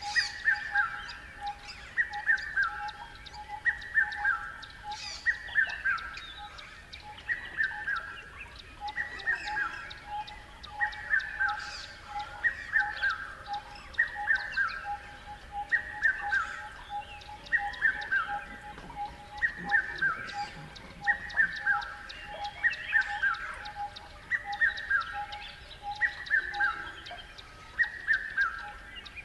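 Birds singing: one bird repeats a short phrase of falling notes about every two seconds, over a steady run of quick, lower pulsed notes and scattered higher chirps from other birds.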